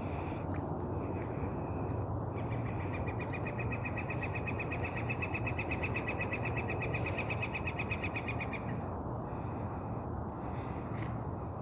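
A bird's long, rapid trill of evenly repeated notes at one steady pitch. It starts about two seconds in and stops near the end, lasting about six seconds, over a steady low background rumble.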